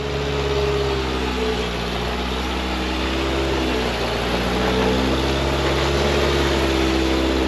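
V8 engine of an off-road truck running at low revs as it crawls an obstacle, its pitch slowly dipping and rising with the throttle.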